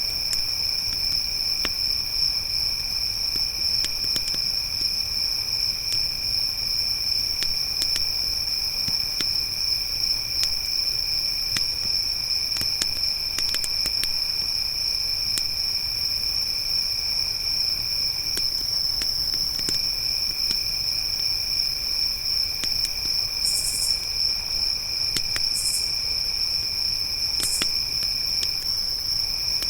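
Crickets trilling steadily, a high continuous trill with a lower one beneath that drops out briefly twice, over sparse small crackles and pops from a campfire. In the last third come three short, higher buzzes about two seconds apart.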